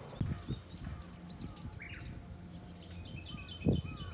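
Small birds chirping repeatedly over a low steady hum, with a few dull low thumps, the loudest about three and a half seconds in.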